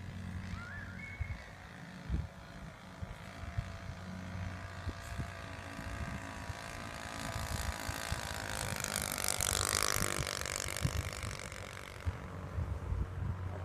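The YS 91 AC four-stroke nitro glow engine of a large RC airplane running with a steady buzzing tone. It grows louder to a peak about ten seconds in, drops slightly in pitch, then fades. Wind rumbles on the microphone throughout.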